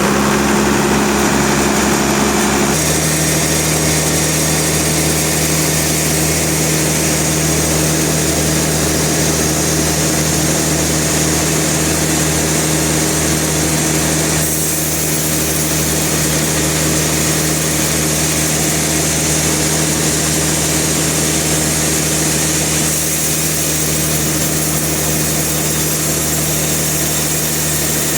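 Sawmill machine running: a steady engine drone with a high hiss over it, its tone shifting a little a few seconds in and again about halfway through.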